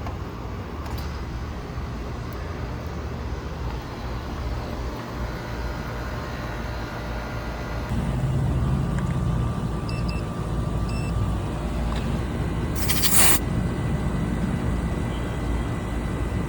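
A 2-ton AC condensing unit running on its newly replaced Copeland scroll compressor, freshly charged and just started: a steady mechanical hum that gets louder about halfway through. A brief sharp hiss comes about three seconds before the end.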